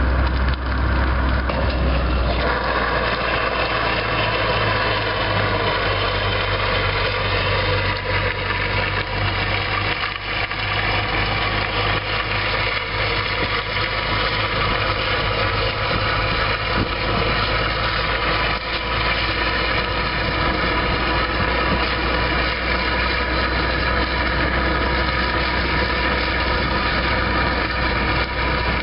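Car engine running steadily at low revs, an even drone whose note shifts slightly about two seconds in.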